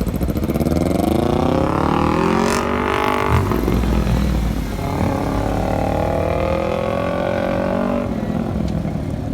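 Honda Civic (EM2 chassis) accelerating hard: the engine pitch climbs, drops at an upshift about three and a half seconds in, climbs again through the next gear, then falls off as the throttle is lifted about eight seconds in.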